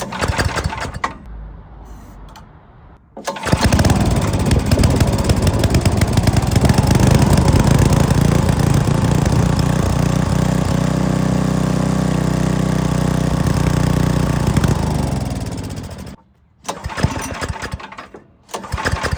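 Wood chipper's small gasoline engine catching about three seconds in and running steadily for some twelve seconds, then slowing in pitch and stalling; a shorter burst of engine noise follows near the end. The stall comes with the cleaned original carburetor still fitted, on an engine that had been surging.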